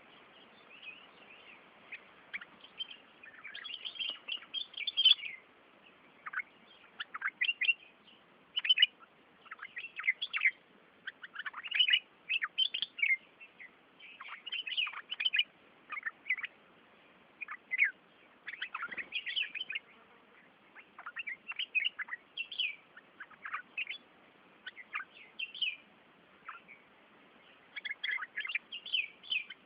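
Small birds chirping: many short, sharp chirps in quick clusters, one after another.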